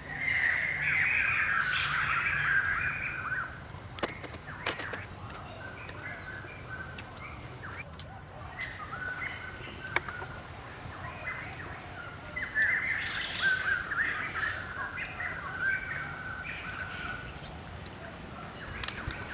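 Birds calling in two loud bouts of chattering, cawing calls, one at the start and one about two thirds of the way through, with a few sharp clicks between them.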